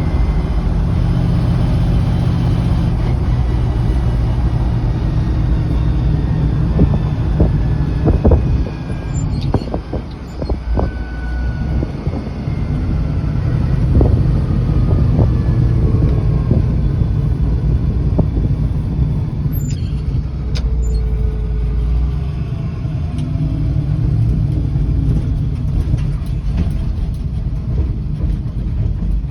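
Engine of a 1968 Chevrolet K20 pickup running steadily, with its pitch drifting, and a few knocks and clunks about a third of the way in.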